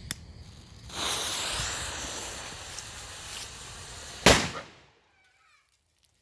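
A fuse hissing for about three seconds, then one very loud bang from a homemade 1-gram firecracker about four seconds in.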